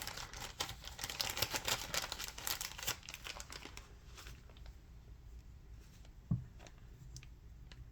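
Crinkling and tearing from black dry-fly dubbing being pulled apart and handled, dense for about three seconds, then thinning to a few scattered ticks. A short low thud comes about six seconds in.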